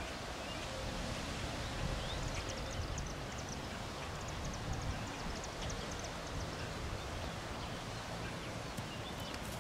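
Steady low rumble of a distant freight train moving away, with a run of faint, quick high chirps from about two to six seconds in.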